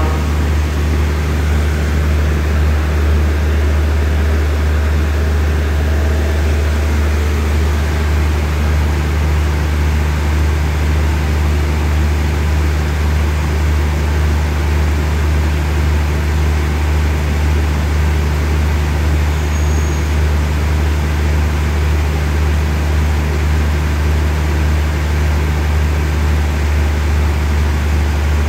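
A standing diesel-hauled passenger train running at rest: a steady, unchanging low hum from its idling engine and running air-conditioning machinery.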